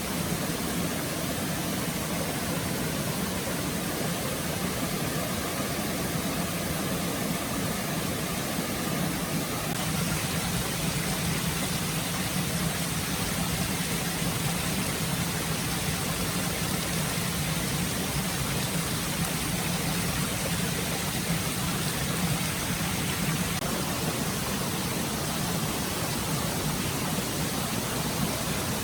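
Forest stream flowing, a steady rush of running water.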